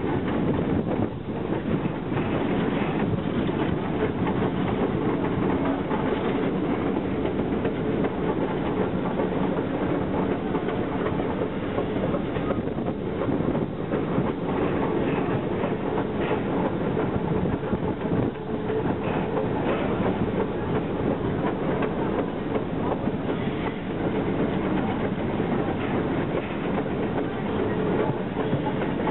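Steady rumble and clatter of a train rolling along the track, heard from an open car coupled right behind Western Maryland Shay No. 6, a geared steam locomotive.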